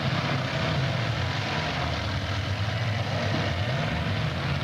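Several demolition derby cars' engines running together in a steady, loud din.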